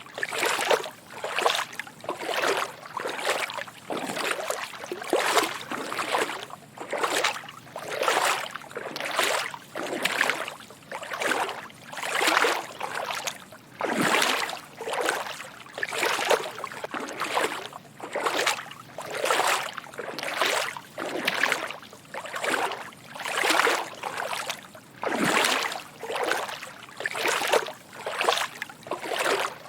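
Footsteps wading through shallow water: a steady walking rhythm of soft sloshing splashes, a little over one step a second.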